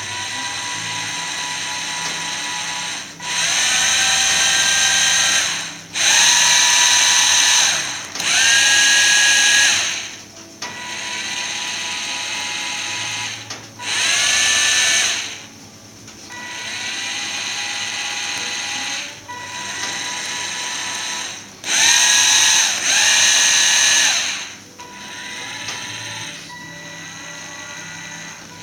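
Small electric motors running in about a dozen short runs of a few seconds each. Each run is a whine that rises in pitch as the motors spin up, holds, then falls as they wind down. Some runs are louder than others.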